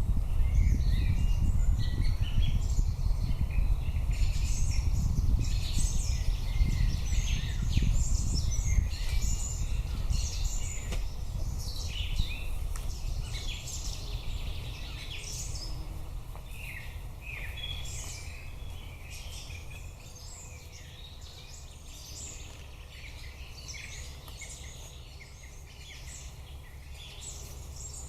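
Several songbirds singing in woodland, many short chirps and trills overlapping throughout. Under them a low rumble, strongest at first, eases off after about fifteen seconds.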